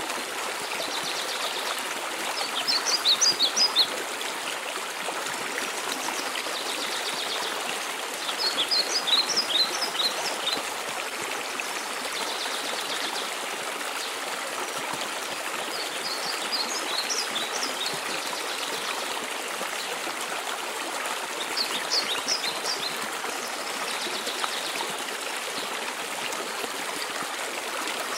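Steady rush of a mountain waterfall, with a songbird repeating a short song about every six seconds: a brief trill followed by a quick run of high chirps, the chirps standing out above the water.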